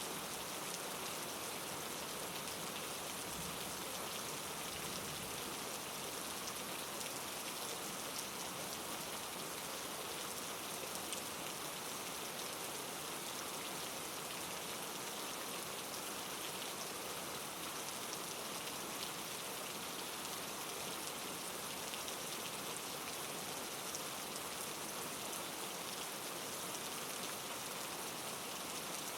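Steady rain falling, a dense even hiss with fine drop patter.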